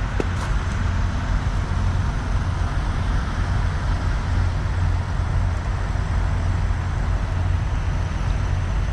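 Steady low rumble of a running vehicle engine under an even wash of road noise.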